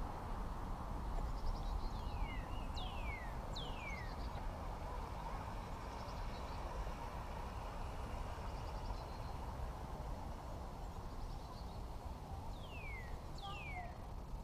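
A bird calling in short, sharp whistles that slide down in pitch, three in quick succession about two seconds in and two more near the end, over steady low outdoor background noise.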